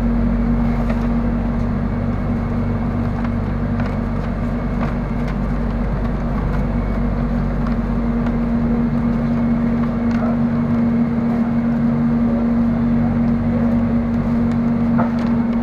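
Inside the cabin of an airport-line electric train running along the track: a steady rumble with a constant low hum and a few faint clicks.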